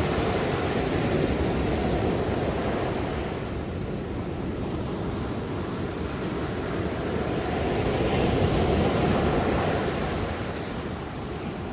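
Ocean waves washing on a shore as a steady rushing, swelling about twice and easing between swells.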